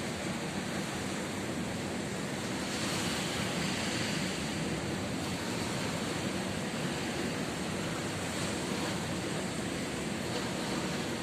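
Ocean surf washing onto a beach: a steady rush of breaking waves, with one swelling louder about three seconds in.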